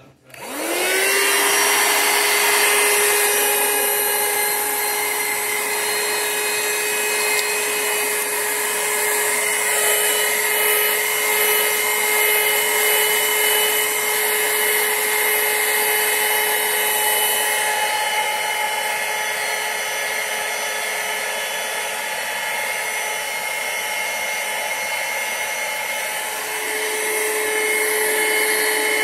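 BLACK+DECKER dustbuster cordless handheld vacuum switched on, its motor spinning up to speed in about a second, then running steadily with a high whine and airflow hiss.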